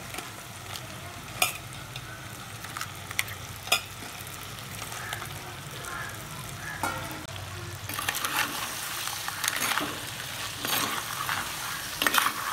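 Crabs sizzling in hot oil with fried onion and tomato in a clay pot, with a few sharp clicks. From about eight seconds in it gets louder and busier as a steel spoon stirs the crabs, scraping against the pot.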